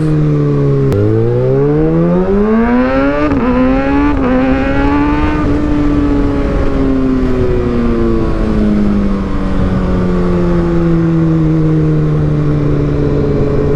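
Kawasaki ZX6R 636 inline-four through an Austin Racing GP1RR exhaust, under way. About a second in the engine note drops, then rises steeply as the bike accelerates, with two brief dips. It then levels off and falls slowly as the rider rolls off the throttle and slows.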